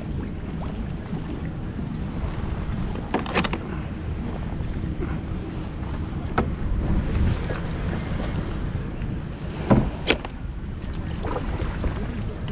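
Water running and slapping against a kayak hull in a strong tidal current, with wind on the microphone. A few sharp knocks break through, the loudest pair about ten seconds in.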